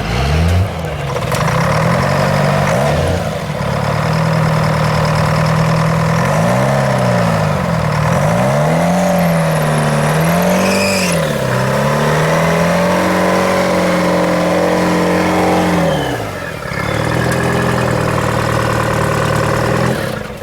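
Detroit Diesel 4-53 two-stroke engine in a CJ7-bodied mega truck running hard under throttle. The revs swing up and down repeatedly, hold steady, drop for a moment about sixteen seconds in, then pick up again.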